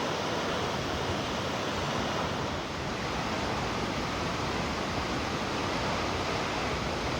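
Water of a large waterfall falling and rushing, a steady even noise with no breaks.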